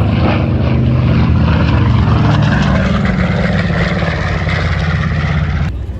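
Propeller airplane engine droning steadily with a low, even tone under rushing noise; it cuts off abruptly near the end.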